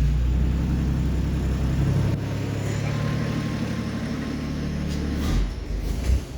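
Toyota 1JZ straight-six engine in an FR-S running on its newly finished exhaust, a steady low idle that becomes unsettled about five seconds in and dips in level near the end.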